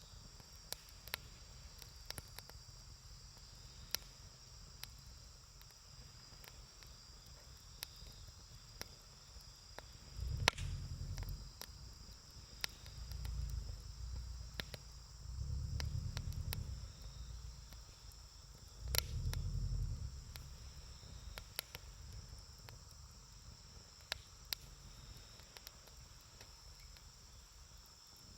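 Wood campfire crackling, with scattered sharp pops, the strongest about ten seconds in and again near nineteen seconds, and a few low rumbles in the middle. Steady high insect chirring, like crickets, runs underneath.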